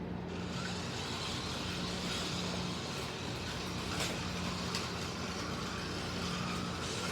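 Slot cars (MR Slotcar Cunningham Corvettes and a Scalextric Mercedes 300 SLR) running on the track: small electric motors whirring with a steady hiss, starting abruptly in the first half second, with a couple of sharp clicks along the way.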